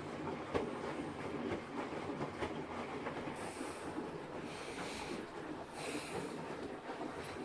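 Beko HTE 7616 XO washing machine running a wash cycle, with a steady rumble and irregular rattling knocks from the drum and three short bursts of hiss in the middle. The banging and grinding come from the polystyrene foam block under the machine that still holds the drum.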